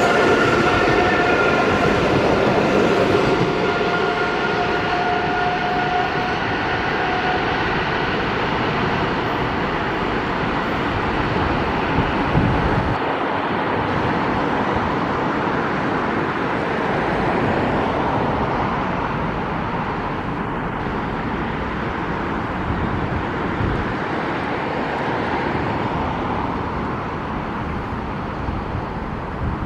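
Electric suburban multiple-unit train running along the line, a steady rumble of wheels on rails with a faint motor whine in the first several seconds, slowly getting quieter as it moves away.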